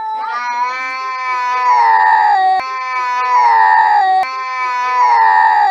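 A cat yowling in one long unbroken caterwaul that swells louder and falls back three times.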